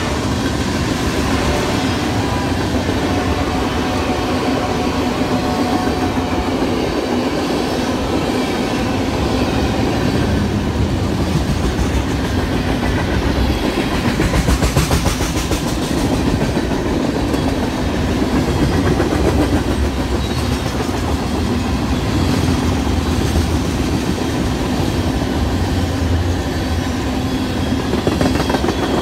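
Train rolling past at close range: a steady, loud rumble of cars with wheel clatter over the rail joints. A locomotive horn note dies away at the very start.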